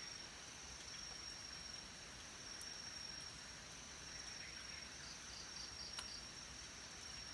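Insects, crickets among them, trilling faintly: one steady high-pitched trill throughout, with a quick series of about five chirps a little after five seconds in.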